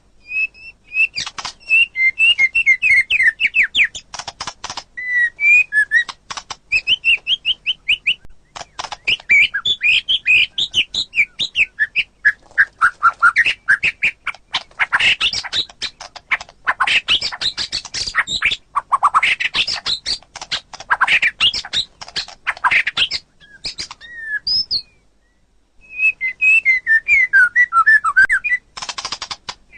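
White-rumped shama (murai batu) singing a long, varied song of fast repeated notes, trills and whistles, broken by one brief pause about 25 seconds in.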